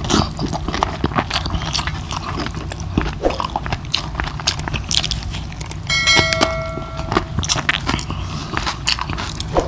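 Close-miked eating of crispy fried pork belly (lechon kawali) and rice: crunching bites, chewing and wet mouth sounds. About six seconds in, a short bell-like chime rings for about a second over the chewing.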